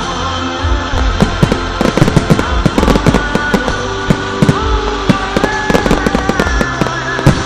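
Fireworks display: a rapid, irregular run of bangs and crackles, over music with sustained notes.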